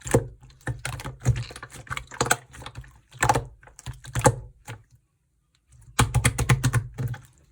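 Slime being squished, pressed and poked by hand, making clusters of sticky clicks and crackling pops, with a pause of about a second roughly five seconds in before a quick run of clicks.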